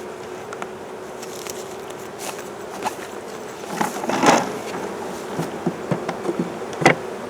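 Honeybees buzzing in an opened hive, a steady colony hum, the bees growing excited at the disturbance. A few sharp knocks and clicks from handling the hive cut through it, the loudest about four seconds in and another near the end.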